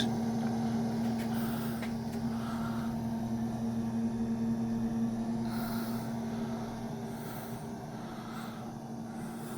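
Small electric pump circulating descaling solution through a tankless water heater's heat exchanger, running with a steady hum that fades slowly toward the end.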